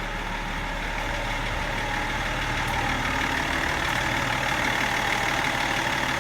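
BMW M57D30 3.0-litre straight-six turbodiesel running steadily, growing slightly louder over the first few seconds.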